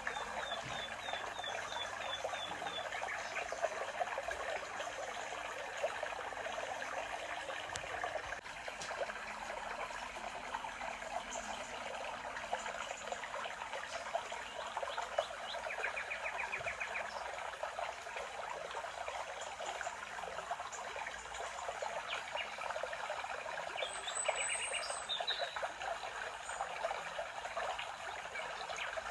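A stream trickling and babbling steadily, with birds chirping over it: a quick run of notes at the start and short rapid trills now and then.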